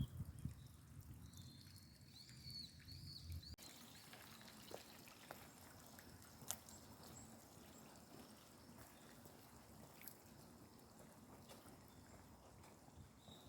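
Faint birdsong: a few short, bending chirps over a low rumble in the first three and a half seconds. The rumble then cuts off abruptly, leaving faint outdoor ambience with a few scattered ticks.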